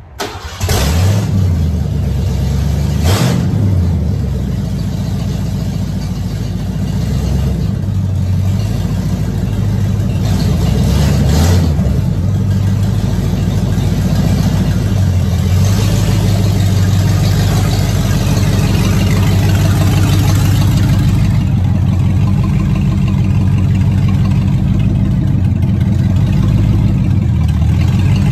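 Lincoln Mark VII's 5.0-litre small-block Ford V8 starting up suddenly and running. It is revved briefly a couple of times in the first dozen seconds, then runs steadily while the car begins to pull away.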